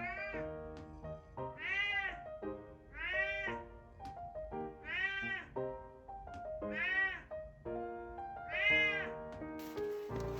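Domestic cat meowing six times, each call rising and then falling in pitch, about every one and a half to two seconds, over piano background music.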